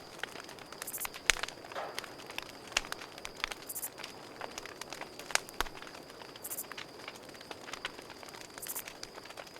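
Campfire crackling, with irregular sharp pops from the burning wood, over a steady high cricket trill. A brief higher hiss comes back about every two to three seconds.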